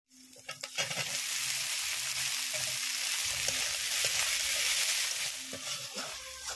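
Hot oil sizzling in a wok as onions, green chillies and cut taro stolons fry, stirred and tossed with a metal spatula that clicks and scrapes against the pan. The sizzle is loudest through the middle and eases off near the end.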